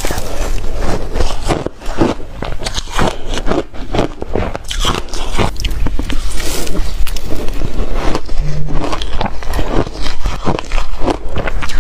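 Refrigerator ice being bitten and chewed: a loud, dense run of crunching and cracking.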